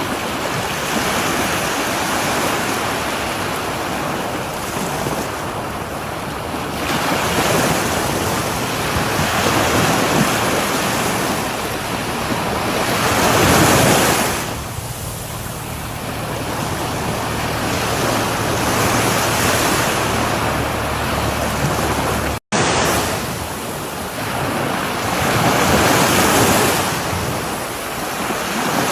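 Sea waves breaking on a shore, the surf swelling and falling back every several seconds. The sound cuts out for a split second about two-thirds of the way through.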